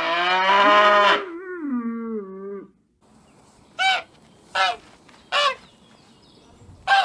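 A cat's long, wavering yowl that breaks off after a couple of seconds, then after a short pause four short, separate calls from another animal.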